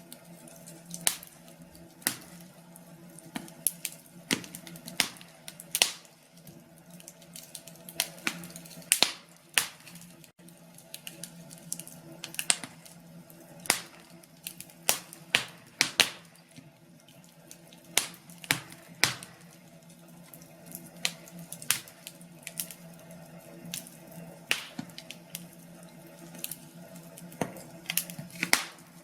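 Wood fire crackling, with sharp irregular pops and snaps, often one every second or so and sometimes several in quick succession, over a faint steady hum.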